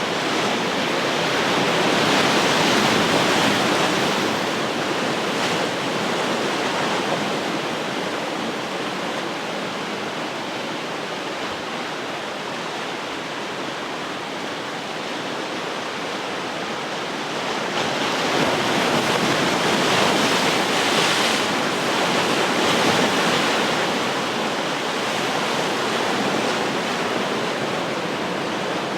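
Ocean surf: waves breaking and washing onto the shore in a continuous rush, swelling louder twice, about two to four seconds in and again around twenty seconds in.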